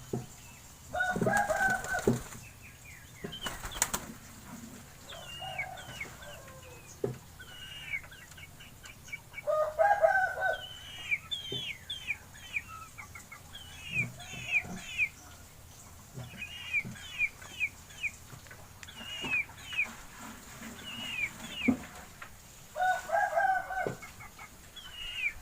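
Domestic pigeons flapping their wings, with a hen's clucking calls about a second in, around ten seconds in and near the end. Quick, falling high chirps repeat through the middle.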